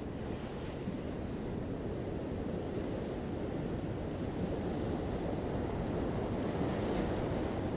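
Ocean waves breaking and washing up a beach, a continuous surf rumble that slowly swells, with a hiss of spray near the end.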